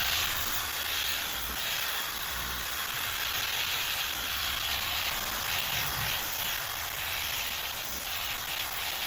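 Torque dual-action polisher running steadily at a high speed setting, its pad buffing polish on a plastic headlight lens with a constant hiss.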